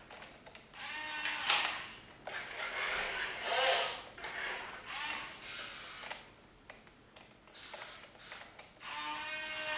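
The small electric motors and plastic gearboxes of a 1/14 scale remote-control log loader, whirring in several short bursts whose pitch rises and falls with the throttle.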